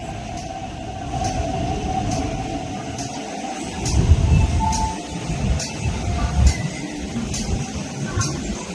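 An MTR East Rail Line R-train electric multiple unit pulls out and moves away, its wheels rumbling on the rails over a steady motor hum. The rumble is heaviest around the middle. Faint ticks sound about once a second.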